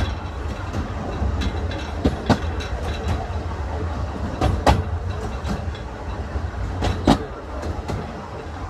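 Narrow-gauge railway coach running along the track: a steady low rumble, with the wheels clicking over rail joints in quick pairs about every two and a half seconds.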